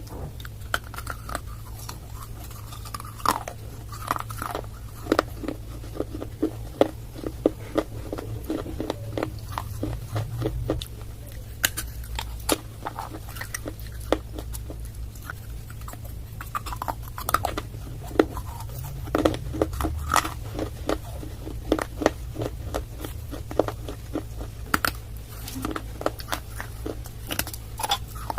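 A person biting and chewing pieces of clay close to the microphone: a dense, irregular run of sharp crunches and cracks, over a steady low rumble.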